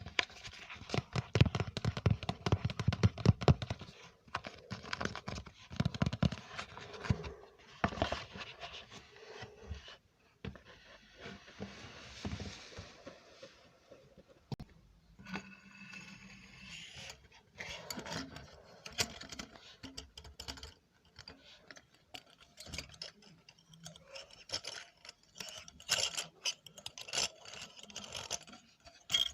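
Close-miked ASMR trigger sounds: scratching and scraping made up of dense, rapid clicks, in several separate passages with brief pauses between them.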